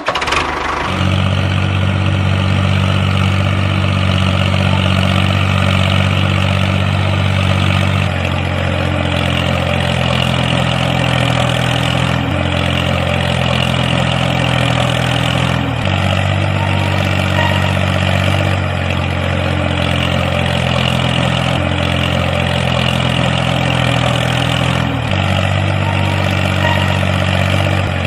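Small engine of a home-built mini tractor running steadily. Its pitch shifts abruptly several times, about every three to four seconds.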